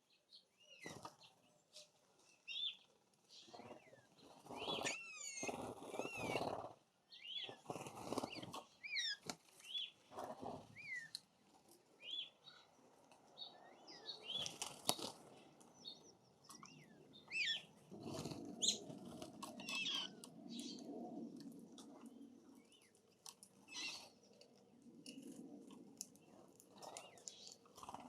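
Songbirds at a jelly feeder giving many short, high chirps and squeaks, with bursts of wing flutter and scuffling as birds come and go.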